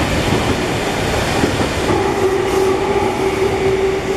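A JR East 215 series double-deck electric train passing close by at speed: a steady, loud rush of wheels on rails. About halfway through, a steady humming tone joins it.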